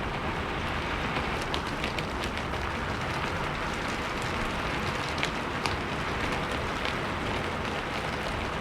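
Steady rain falling, a continuous hiss with scattered sharp drip ticks of individual drops striking a surface.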